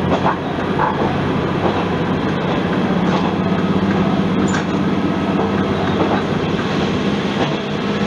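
Isumi Railway diesel railcar running along the line: a steady engine drone with the rumble of the wheels on the track, and an occasional click as the wheels pass rail joints.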